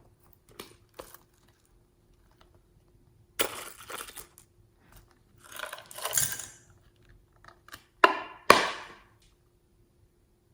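Slime being squished and pressed by hand in several separate noisy bursts, each starting sharply and fading quickly, the loudest two close together near the end.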